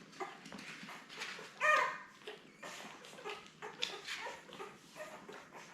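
Ten-day-old Labrador retriever puppies whimpering and squeaking in short, repeated cries as they jostle for teats to nurse; the loudest cry comes a little under two seconds in.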